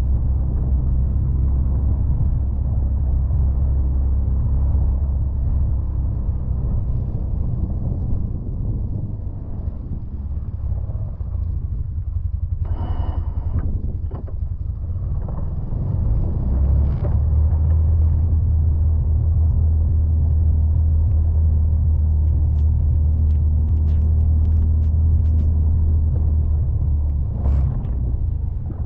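Can-Am Defender side-by-side's engine running steadily under way. It dips for a while, then holds a stronger, steadier note from about halfway through, with a few light clicks and clanks near the end.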